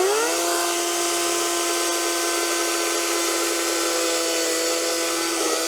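DCK 58V brushless cordless chainsaw spinning up to speed within a fraction of a second, then running with a steady high-pitched electric whine.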